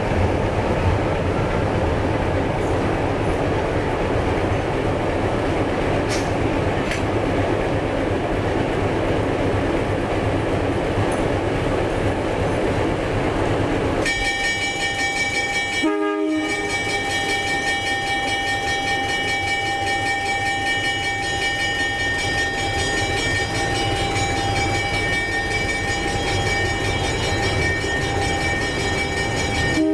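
A narrow-gauge diesel locomotive and its train running by with a steady rumble, then about halfway through the locomotive's air horn sounds in a long, steady blast, broken once briefly and held to the end.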